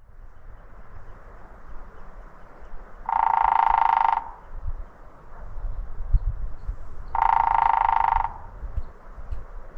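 A woodpecker drumming: two drum rolls of about a second each, some four seconds apart, with a ringing tone.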